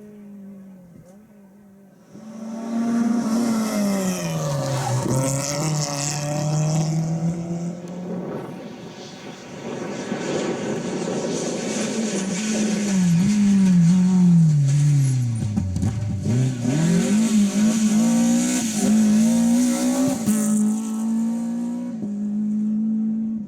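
Rally car engine at close range. The engine note drops sharply about two seconds in, runs low for a few seconds, falls again, then climbs back up, with a hiss of tyre noise throughout.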